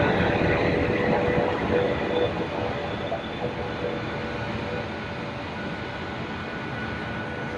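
A passenger train rolling past on the rails. Its running noise slowly fades over the seconds, over a faint steady hum.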